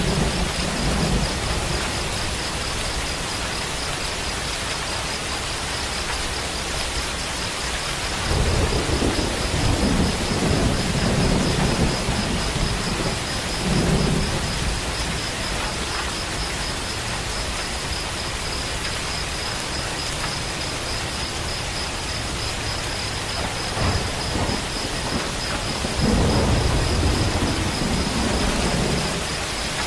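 Steady heavy rain with low rumbles of thunder rolling in at the start, again from about eight seconds in for several seconds, and once more near the end.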